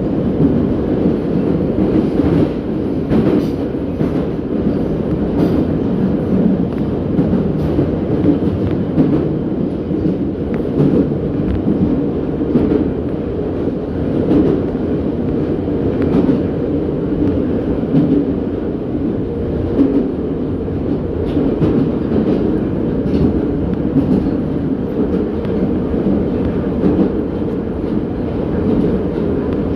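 An 81-717.6 metro train running at speed in a tunnel, heard from inside the car: a steady rumble of wheels on the rails, with occasional faint clicks.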